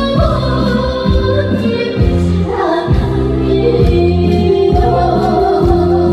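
A young girl singing over a loud backing track with a steady bass beat.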